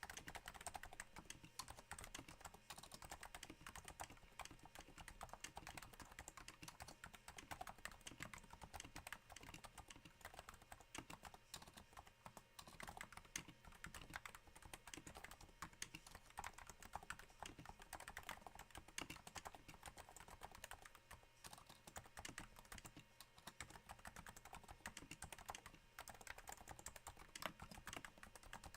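Typing on a Cooler Master NovaTouch keyboard with Topre switches damped by Hypersphere silencing rings: a quiet, continuous patter of key strokes that sounds a little like rain.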